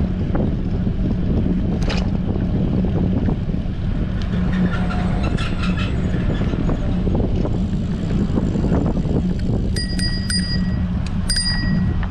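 Strong wind buffeting a bicycle-mounted action camera's microphone as the bike rolls along, a steady low rumble. Near the end a bicycle bell rings with several quick dings.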